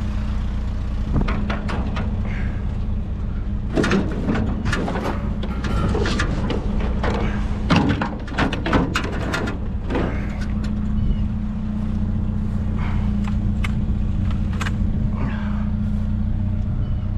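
A vehicle engine idling steadily, with a run of irregular knocks and rattles over the first ten seconds or so and a few more later.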